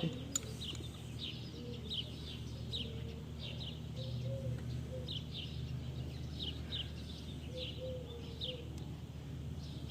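Small birds chirping: many short, high, falling chirps repeating irregularly, over a low steady hum, with a sharp click at the very start.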